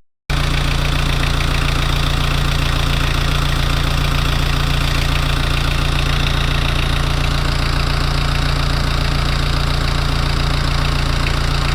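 Kubota V1505 four-cylinder diesel engine idling steadily, starting just after a brief silence.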